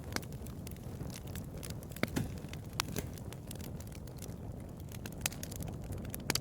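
Bonfire crackling: irregular sharp pops and snaps over a low, steady rumble of burning, with a cluster of louder pops about two seconds in.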